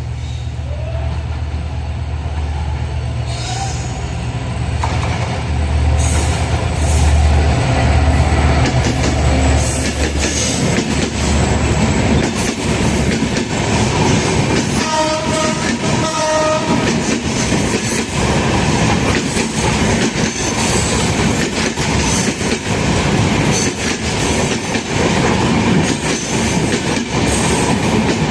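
Diesel-hauled passenger train passing close by: heavy locomotive engine rumble at first, then steady wheel clatter over the rail joints as the coaches roll past. About halfway through, the locomotive's multi-tone horn sounds in a few short blasts.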